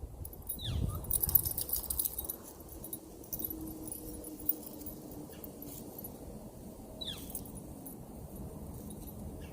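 Metal dog tags and leash hardware jingling as a small dog moves about, clinking most about a second in. Two short high calls that fall in pitch come once near the start and again about seven seconds in.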